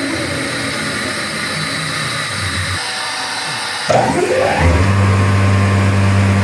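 Woodworking tenoning machine running, its electric motors humming steadily. About four seconds in another motor switches on: its whine rises as it spins up, then settles into a louder steady hum.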